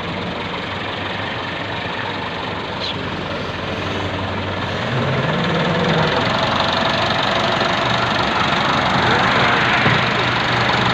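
Massey Ferguson tractor's diesel engine running steadily, growing louder about halfway through.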